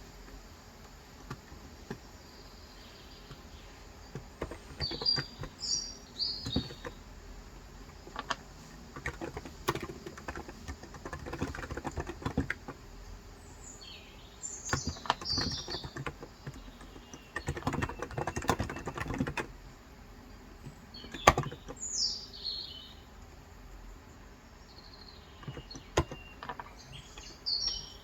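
Bursts of rapid typing on a Cox Endeavor electrocapacitive (Topre-style) 35g tenkeyless keyboard, the keystrokes coming in runs of a few seconds with pauses between. Birds chirp in short high phrases several times over the typing.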